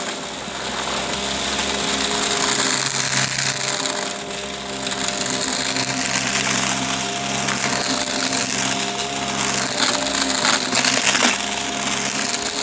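Upright vacuum cleaner running with a steady motor hum, its brushroll sucking up crunchy debris that crackles and rattles through it.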